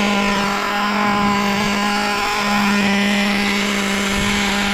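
Small nitro RC engine of a Kyosho GT1 running at a steady, fast idle, pitch holding level. The idle is set too high, enough that the car creeps forward on its own; the owner puts it down to the idle screw.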